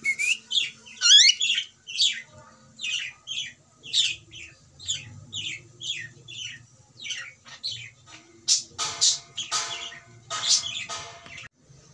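Cockatiel calling: a run of short, quick chirps about two a second, then three or four harsher, scratchier squawks near the end.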